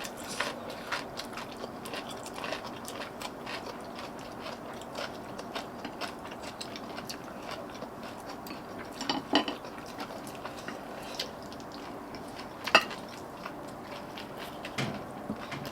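Eating sounds at a meal: utensils clicking and tapping against dishes, with chewing, and a couple of louder clinks about nine seconds in and near thirteen seconds.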